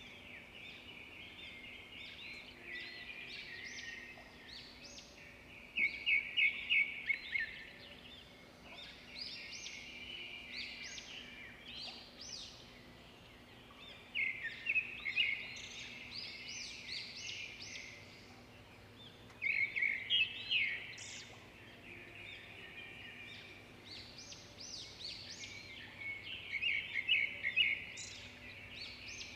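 Birds chirping and trilling in short phrases that come every few seconds.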